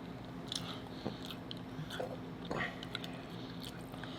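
Close-up chewing and biting of a taco, with scattered small crunches.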